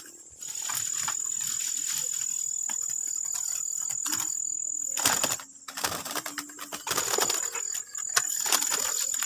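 Bursts of wing flapping about five seconds in and again at the end, from green pigeons on the lime-stick trap, over a steady high-pitched cricket trill that breaks off for a moment in the middle.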